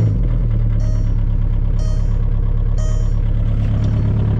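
VW Beetle TDI's four-cylinder turbodiesel idling steadily just after a cold start at 15 degrees. A faint high chime repeats about once a second over the engine.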